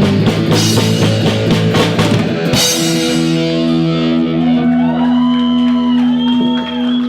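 Rock band playing live with electric guitar and drum kit, the drumming stopping about two and a half seconds in as the final chord is held and rings out. Audience whoops and cheers begin over the ringing chord near the end.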